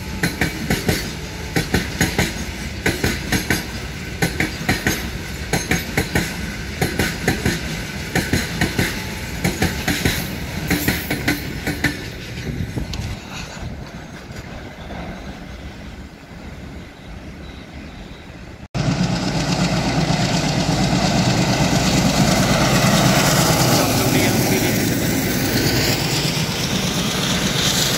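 A train of covered freight wagons rolling past with a steady rhythm of wheel clicks over the rail joints, growing fainter as the end of the train draws away. About two-thirds of the way through it cuts to a passenger train of ICF coaches running past close by, a louder, steady rumble and clatter of wheels on track.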